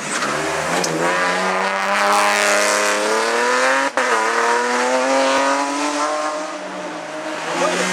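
Race car engine at full throttle, rising in pitch as it accelerates, with a sharp gearshift break about four seconds in. It then pulls again at high revs and eases off near the end.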